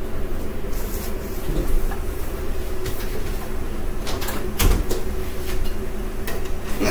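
A few knocks and clatters of kitchen handling over a steady low hum, with the loudest knock about two-thirds of the way through.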